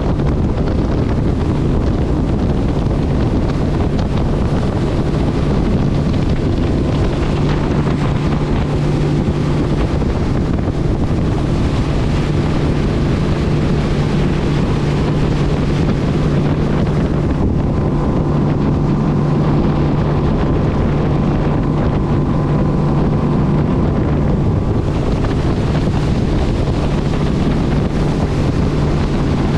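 An engine running at a steady speed, with a constant low hum under heavy wind noise on the microphone.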